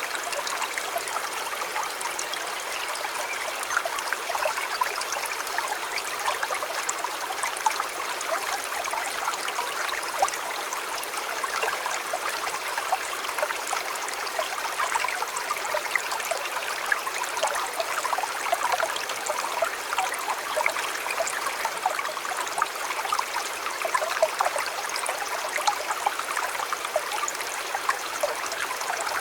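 A river flowing steadily, a continuous babble of water made of many small splashes and trickles, with no change in level.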